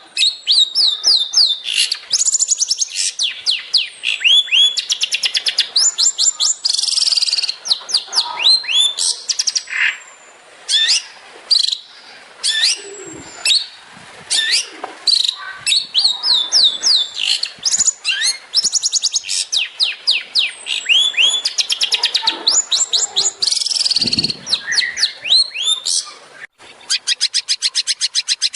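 Long-tailed shrike (cendet) singing in rapid-fire 'tembakan' style: bursts of quick, high, down-slurred whistled notes with short gaps between them. Near the end it breaks into a fast, even rattle of repeated notes.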